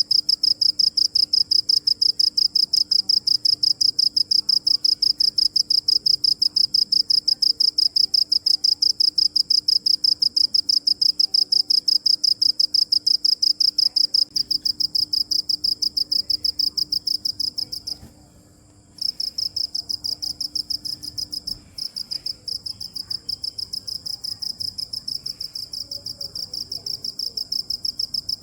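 A cricket chirping in a rapid, evenly spaced pulse. It stops for about a second about two-thirds of the way through, then starts again a little quieter.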